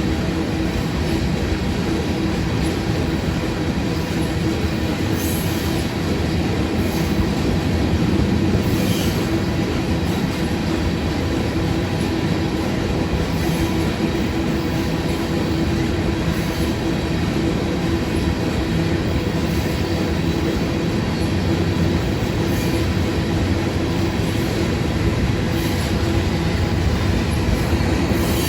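Freight train of loaded rock cars rolling steadily past, a continuous rumble of steel wheels on rail with a thin steady wheel squeal over it.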